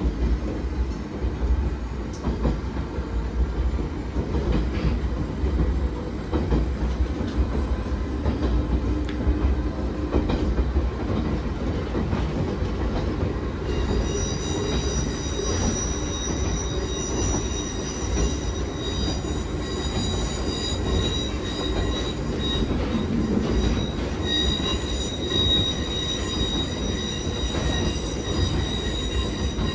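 Nagano Electric Railway 3500 series resistance-controlled electric train running, a steady low rumble with rail clatter. About halfway through, a high-pitched wheel squeal joins it and keeps on.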